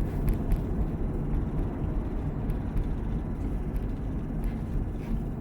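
Steady low rumble of engine and road noise inside a C7 Corvette's cabin while driving.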